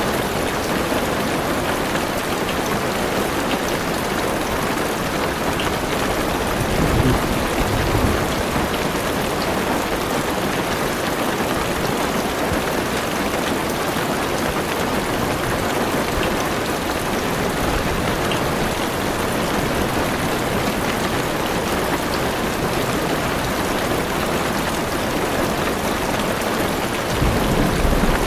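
Heavy rain drumming steadily on a car's roof and windows, heard from inside the car. Low rumbles of thunder swell briefly about seven seconds in and again near the end.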